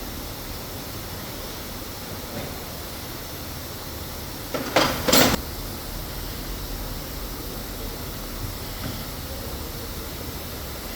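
Steady hum of machinery on an engine assembly floor, with a brief loud clatter about halfway through: two sharp knocks about half a second apart, likely from parts or tools being handled.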